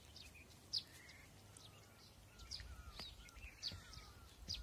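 Small birds chirping faintly: short, high, falling chirps about once a second, with lower warbling notes in the second half. A low rumble on the microphone rises through the second half.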